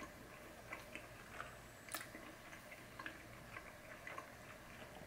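Faint chewing of a mouthful of food: a scatter of soft, wet mouth clicks, with one sharper click about two seconds in.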